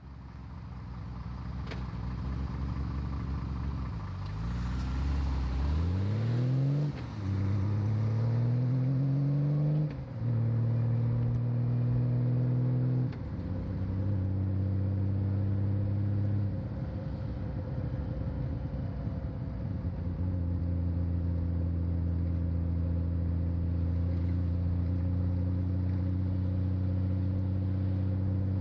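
Honda Valkyrie F6C's flat-six engine pulling away and accelerating, rising in pitch twice with a dip at each gear change. It then shifts up a couple more times and settles into steady cruising, heard through a microphone on the rider's back.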